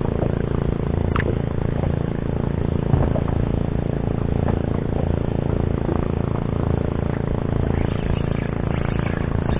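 Boat engine running steadily with an even, low hum, cutting in abruptly at the start, with a few faint clicks over it.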